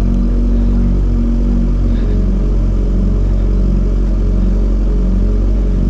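Kawasaki Ninja ZX14R's inline-four engine running steadily, with a deep low drone and a slight wavering in pitch.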